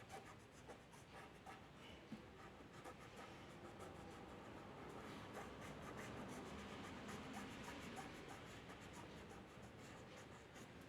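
Faint scratching of a drawing tool on paper, many quick short strokes in a row.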